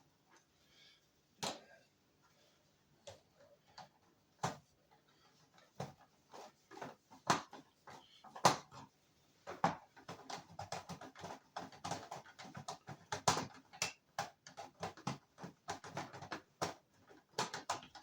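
Irregular clicks, taps and knocks of instrument cluster parts being handled and fitted together during reassembly, sparse at first and turning into a busier run of small rattles and taps from about ten seconds in.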